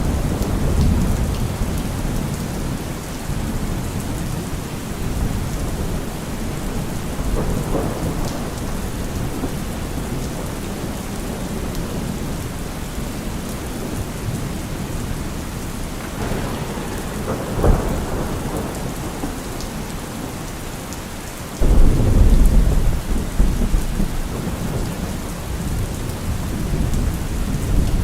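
Heavy rain drumming on a car roof with repeated thunder: a rumble at the start, a softer one about eight seconds in, a sharp crack just past halfway, and a sudden loud rumble about three-quarters of the way through.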